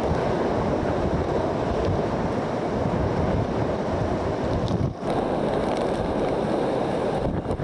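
Hurricane-force wind blowing hard across the microphone, a dense steady rush with no pitch, dropping out briefly about five seconds in.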